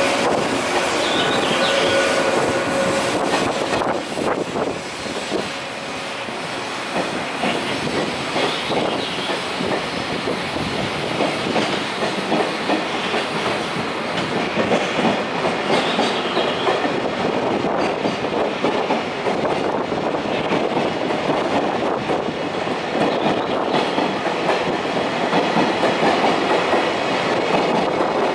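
Passenger train pulling out of a station at low speed, its wheels clacking over rail joints and points as it moves away, with a brief high wheel squeal in the first few seconds.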